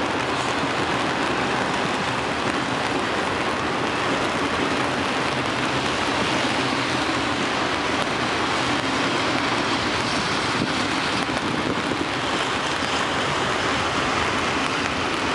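Steady hiss of heavy rain mixed with the even running noise of a freight train of autorack cars rolling past, with no distinct clicks or squeals.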